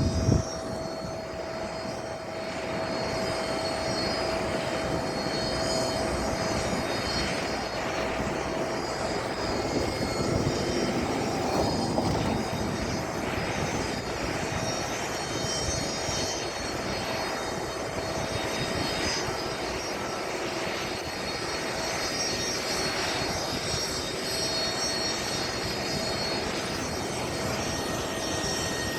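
Aircraft engine running steadily: a continuous rush with a steady whine on top.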